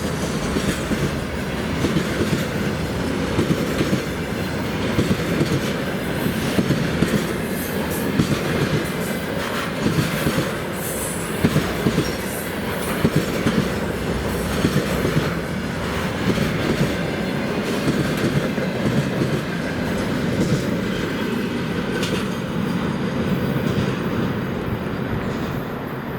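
Freight train wagons rolling past at speed, the wheels clattering over rail joints in irregular knocks over a steady rumble, easing slightly near the end.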